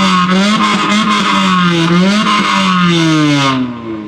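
Car engine revved hard and held high, its pitch wavering, then dropping as the throttle closes about three seconds in.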